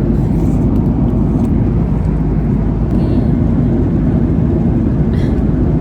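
Steady deep rumble of an airliner cabin in flight, from jet engine and airflow noise.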